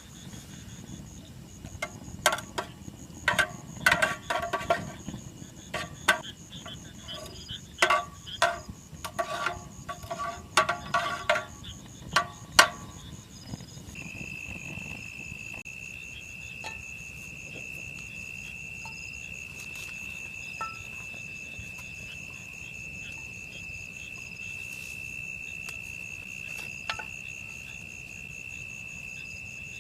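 A run of sharp clinks and knocks, some ringing briefly, fills roughly the first twelve seconds. From about fourteen seconds in, an insect's steady high-pitched trill sets in and holds, over a faster, fainter insect chirping that runs throughout.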